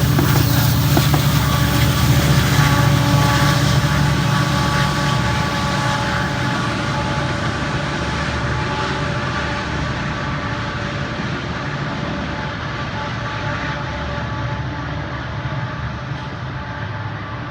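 Passenger train running past and steadily fading as it moves away: a low engine drone with a few steady whining tones above it, the hiss at the top end dying out first.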